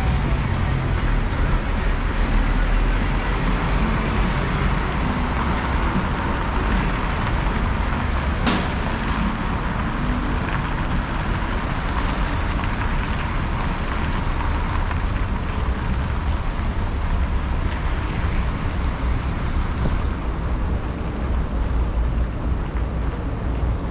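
City street traffic: a steady wash of road noise from passing cars and buses, with a deep low rumble underneath, and one sharp click about eight seconds in.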